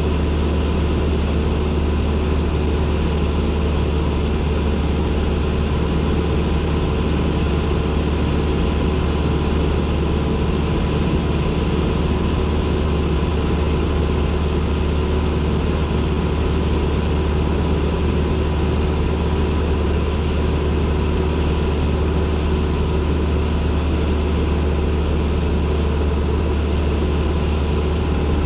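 Cessna 172N's four-cylinder Lycoming engine and propeller droning at a constant, unchanging power, heard from inside the cockpit as a loud, deep, even hum.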